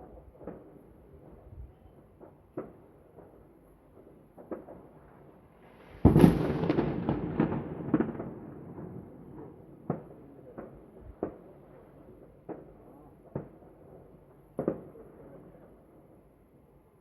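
Fireworks going off: scattered bangs, with one loud burst about six seconds in followed by a few seconds of fading crackle, then single bangs about once a second.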